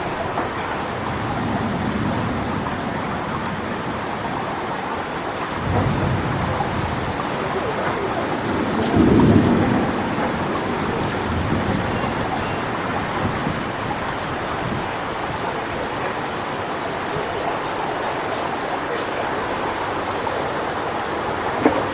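Strong wind blowing through coconut palm trees, a steady rushing with rustling fronds. Low gusts surge about six seconds in and again, loudest, about nine seconds in.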